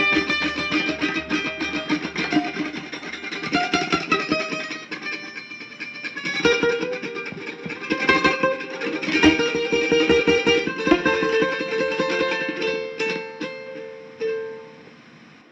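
Background music played on a guitar: a quick run of picked notes over held tones, fading out near the end.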